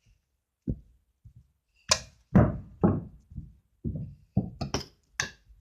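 A run of irregular knocks and thumps, about a dozen over a few seconds, the loudest about two seconds in.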